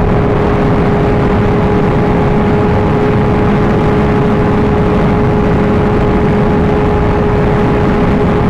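Sport motorcycle cruising at a steady engine speed, its engine holding one even pitch under heavy wind rush.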